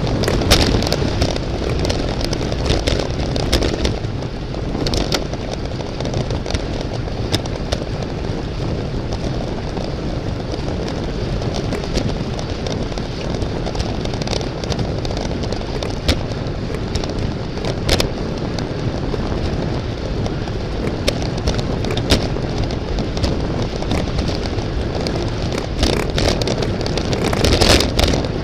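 Steady rushing wind on the microphone of a camera riding along in a bicycle road race, with many sharp clicks and knocks scattered through it.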